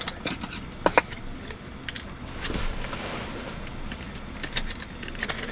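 Scattered light clicks and clinks of tableware during a meal, a few sharper ones about a second in, over a low steady background.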